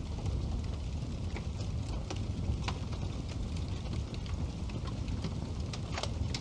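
Wood fire burning in a fireplace: a steady low rumble of the flames with scattered sharp crackles and pops at irregular intervals, two of them louder than the rest.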